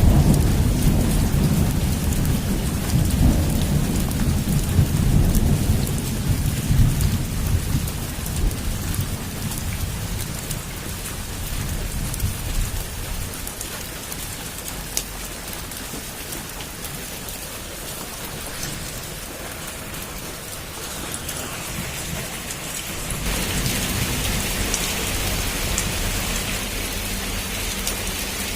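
Heavy rain falling steadily, with a long rumble of thunder at the start that fades away over several seconds. About 23 seconds in, the rain abruptly turns louder and hissier.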